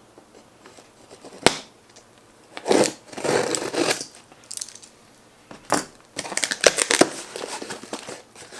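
Toy packaging being opened by hand: crinkling and tearing, with sharp clicks about a second and a half in, near six seconds, and in a quick run just after.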